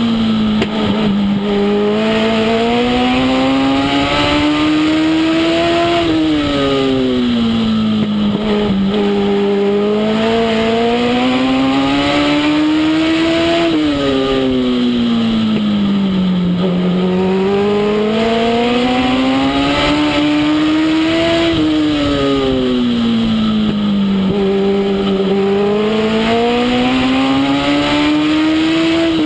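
Legend race car's Yamaha four-cylinder motorcycle engine running hard on a short oval: the pitch climbs for several seconds on each straight, then drops quickly as the driver lifts into the turns, repeating about every seven and a half seconds, lap after lap.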